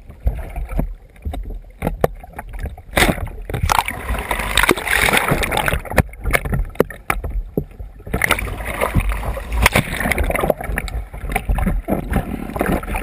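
Water splashing and sloshing against a kayak as it is capsized and rolled, in irregular sharp splashes and gushes, busiest from about three seconds in and again after about eight seconds.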